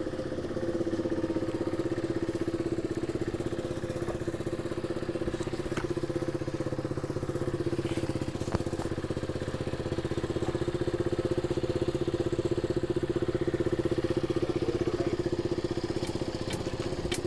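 Motorcycle engine running steadily at an even pitch, its rapid firing pulses heard as a continuous hum.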